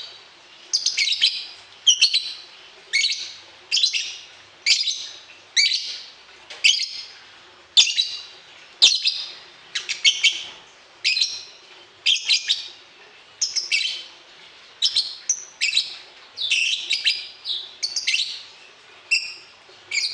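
A bird calling with short, shrill chirps, a burst about once a second and quicker, more broken chattering near the end.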